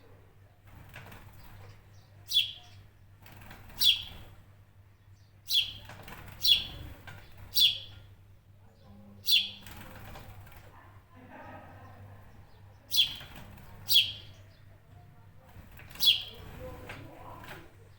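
A bird repeating a sharp, short chirp about nine times at irregular intervals, each call loud and brief against a quiet background.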